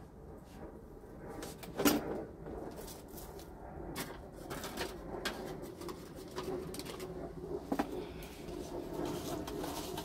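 A bird calling in the background, with scattered clicks and knocks; a sharp knock about two seconds in is the loudest sound.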